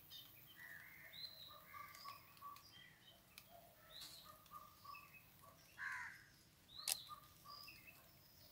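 Faint calls of small birds: many short chirps and whistles in quick succession, with a sharp click about seven seconds in.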